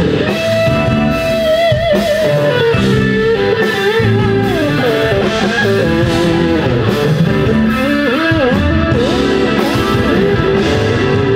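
Rock band playing an instrumental passage: an electric guitar carries a lead melody with sliding, bending notes over bass and drums.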